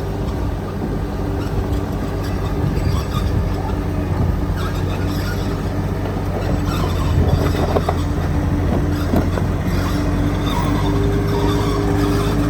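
Heavy diesel engine of an earthmoving machine running steadily under load, with a steady whine over its drone and a few clanks about seven to nine seconds in.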